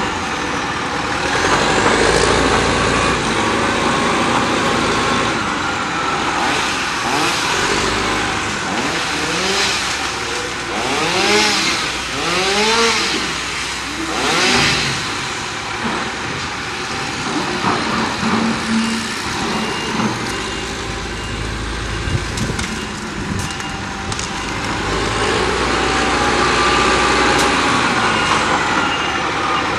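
Payloader and dump truck working, their diesel engines running steadily, with scattered knocks and cracks as branches are loaded.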